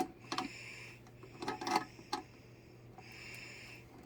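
A few sharp metal clicks and clinks from hand tools working a table leg's adjustable foot: a cluster at the start and another about one and a half to two seconds in, over a steady low hum.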